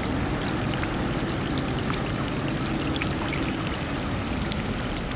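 Rain falling, with water pouring and running steadily and many scattered drops splashing.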